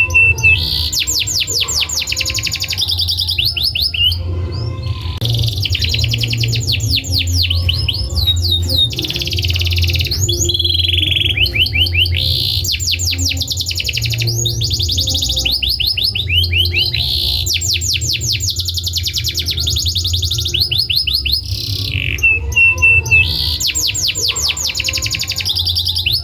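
Domestic canary singing a long song of rapid trills and rolls, with two brief pauses, over a steady low hum.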